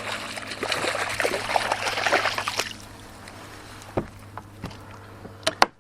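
Water splashing and trickling beside a kayak for about the first three seconds. Then it is quieter, with a few sharp knocks, the loudest near the end.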